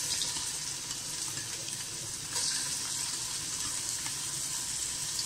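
Ginger-garlic paste sizzling in hot oil in a kadai: a steady frying hiss that gets a little louder about two seconds in.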